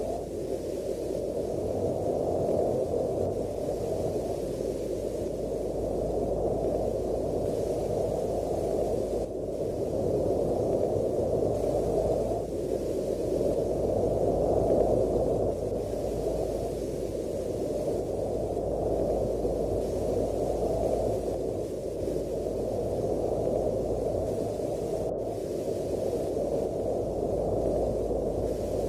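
Wind blowing: a steady rushing noise, deep and muffled, that swells and eases in slow gusts every few seconds.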